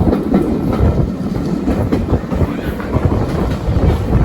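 Heritage passenger train carriage running along the line: a steady rumble of wheels on rail with irregular knocks and clicks over the track joints.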